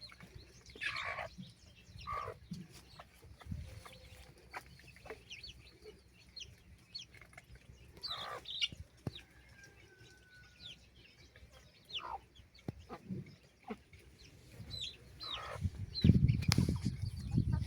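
Chickens clucking and calling now and then, with short bird chirps between them. About sixteen seconds in, a loud low rumble sets in and lasts to the end.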